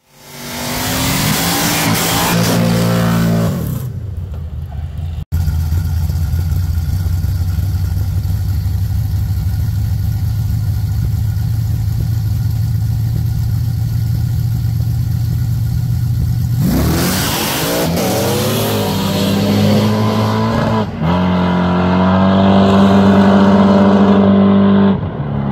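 A car engine revving hard through a burnout with the tyres spinning and hissing. After a cut, engines run steadily for about ten seconds, then launch with a burst of noise and climb in pitch under full throttle as the cars race away.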